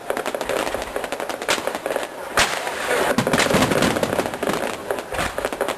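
Fireworks display: a rapid, continuous crackle of small reports, with a few louder bangs standing out, and crowd voices underneath.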